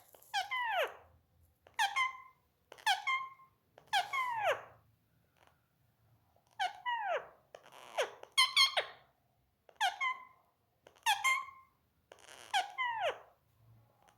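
Indian ringneck parakeet calling: about ten short, harsh calls, each sliding down in pitch, roughly one a second with short gaps between.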